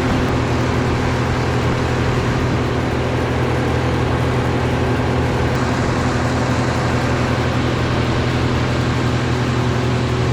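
An engine running steadily at a constant speed, its level and pitch unchanging.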